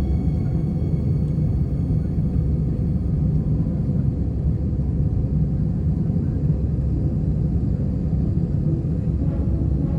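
Cabin noise inside an Airbus A319 airliner: a steady, even low rumble of the engines and airflow, with a faint constant hum.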